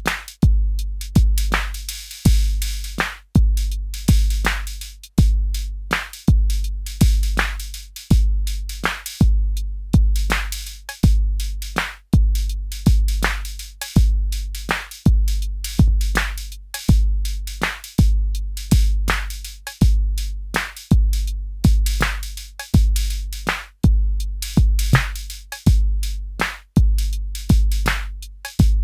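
Arturia DrumBrute Impact analog drum machine playing a looping beat: a deep kick with a long booming low tail hits close to twice a second, under noisy snare and cymbal hits.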